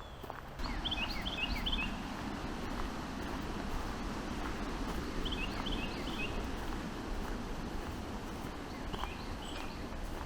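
A small songbird singing three short phrases of quick, high, down-slurred notes, over a steady low rustle of outdoor ambience.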